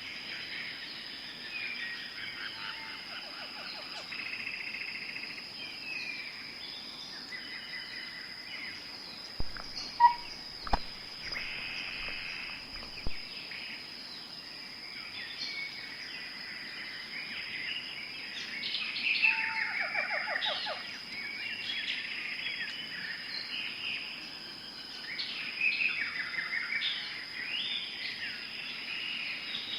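Tropical forest ambience: many birds chirping and trilling over a steady high-pitched insect drone. A few sharp knocks come about ten seconds in.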